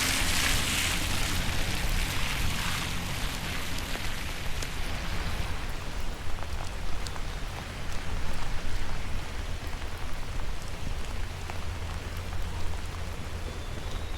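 Rain falling steadily, an even hiss with scattered ticks of individual drops, heavier for the first few seconds; a low rumble runs underneath.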